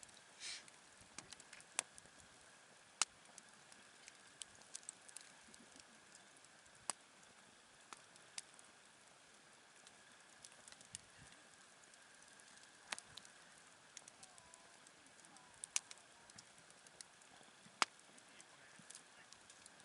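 Wood fire crackling faintly: sharp, irregular snaps and pops, one to a few seconds apart, over a soft steady hiss, with a brief hissing flare about half a second in.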